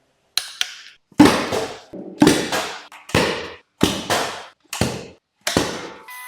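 A series of sharp knocks, mostly in pairs about once a second, each trailing off quickly.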